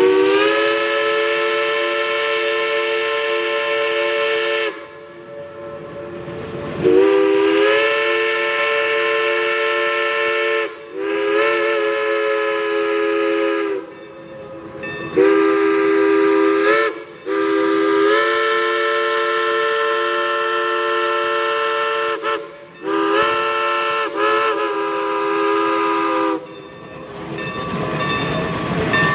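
Climax geared steam locomotive's chime whistle blowing a chord of several tones in about seven blasts, mostly long with a couple of short ones, each rising slightly in pitch as it opens; the last blast stops about 26 seconds in.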